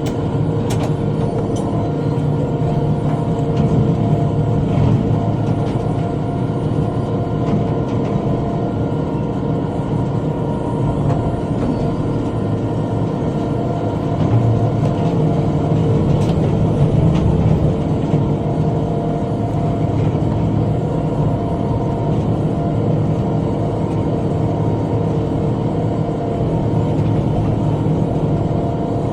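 Tractor engine running steadily while driving a rotary cutter (bush hog), with a low rumble, a slight rise in load about halfway through, and a few faint ticks.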